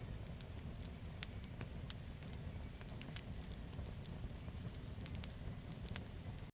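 Campfire burning: a steady low rumble of flame, with wood crackling and popping in frequent irregular snaps.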